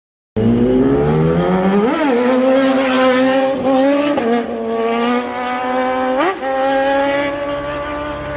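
Small single-cylinder motorcycle engine under way, heard from the rider's seat. It cuts in about half a second in and climbs in pitch as the bike accelerates over the first couple of seconds. It then runs steadily, with a few brief sharp jumps in pitch, about four in all.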